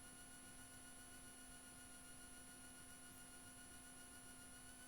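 Near silence: a faint steady electrical hum with a few constant whining tones.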